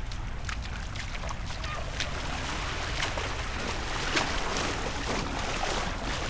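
Sea water sloshing and washing around the camera as it goes into the water, with a low rumble and scattered small crackles.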